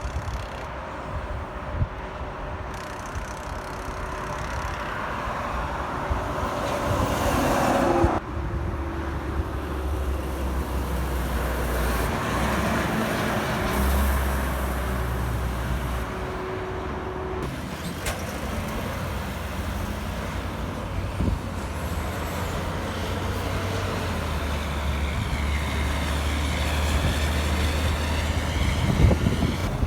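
Heavy diesel trucks driving past on the road, with engine rumble and tyre noise building and fading. The sound changes abruptly twice, about a third and about halfway through.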